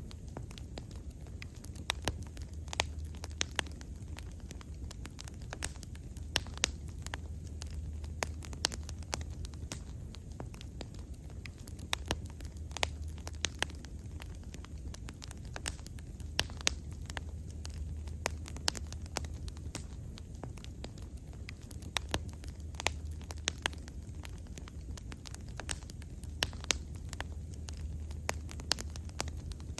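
Wood bonfire burning, with sharp irregular crackles and pops over a steady low rumble of the flames.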